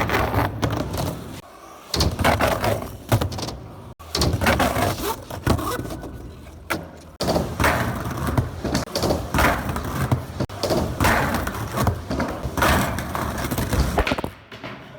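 Skateboard wheels rolling on concrete, broken by repeated sharp clacks and knocks of the board.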